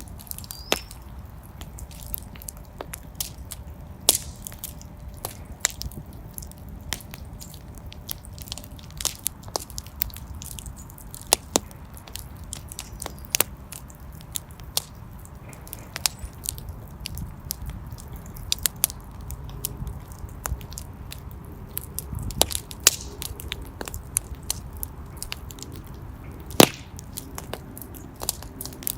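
Fire in a fireplace crackling, with irregular sharp pops over a steady low rumble of flames; the loudest pop comes near the end.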